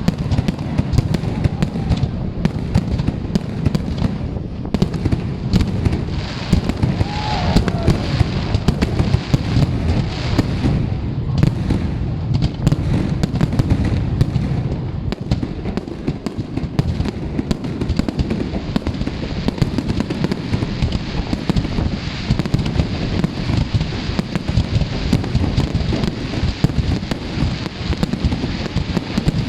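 A fireworks display going off without pause: rapid crackling and bangs over a continuous low rumble of booms.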